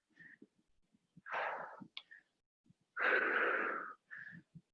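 A person breathing hard during exercise: two long, forceful exhales, about a second and three seconds in, with short quick breaths in between, heard up close on the microphone.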